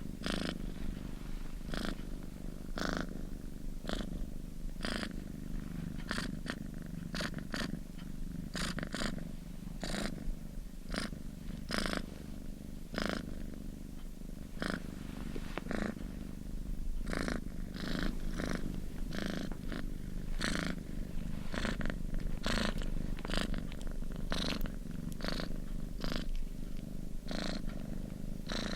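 Domestic cat purring close up: a steady low rumble with a louder pulse roughly once a second.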